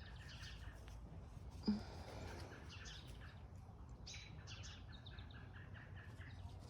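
Small songbirds chirping and twittering in quick, short, high notes throughout, with one brief thump just under two seconds in.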